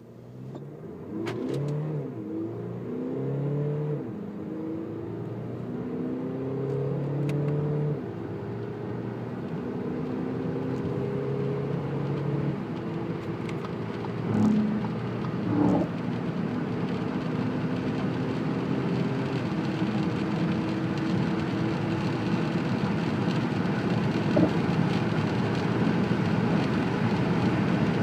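Audi Q5's 2.0 TDI four-cylinder turbodiesel under full-throttle acceleration. The engine note rises in each gear and drops back at the quick upshifts of the seven-speed S-tronic dual-clutch gearbox, in rapid succession at first and then further apart. Rising road and wind noise grows louder as speed builds.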